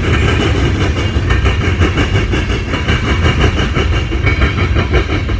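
Illinois Central mixed freight train's cars rolling past close by, a loud steady rumble with many quick wheel clicks over the rail joints.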